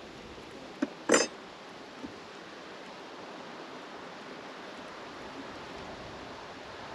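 Steady hiss of breeze on the microphone, with one short sharp knock about a second in.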